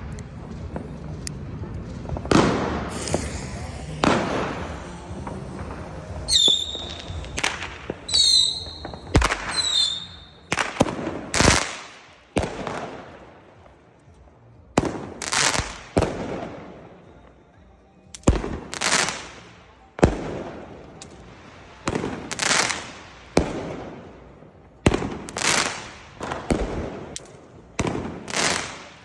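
Weco "Barbarian" 4-stage fireworks battery firing: a long series of sharp shots, one about every second or so, each followed by a bang that dies away. About a quarter of the way in, several shots carry short high whistling tones.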